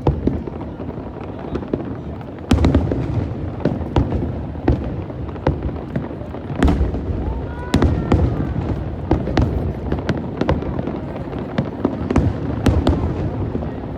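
Fireworks display: aerial shells bursting one after another, sharp bangs about once or twice a second over a continuous low rumble of overlapping bursts.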